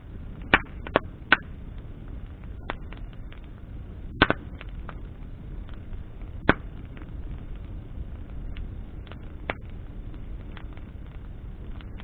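Bonfire of burning branches crackling: sharp pops, three in quick succession near the start and single louder ones later, with many fainter ticks, over the steady low rush of the flames.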